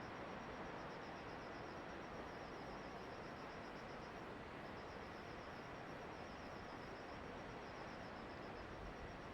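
An insect trilling in fast, evenly repeated high pulses, with a short break about four and a half seconds in, over a steady hiss of background noise.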